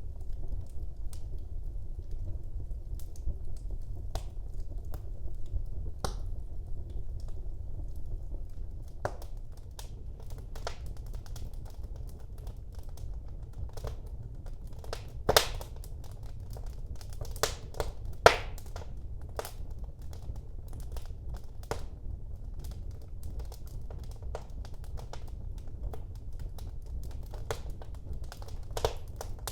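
Wood fire burning in a fireplace: irregular sharp crackles and pops over a low, steady rumble of flame. Two louder pops stand out near the middle, about three seconds apart.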